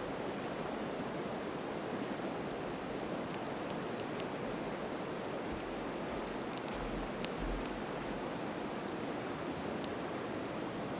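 Steady rush of a river, with a few sharp pops and crackles from split evergreen wood burning in a campfire. Through the middle a high chirp repeats about twice a second.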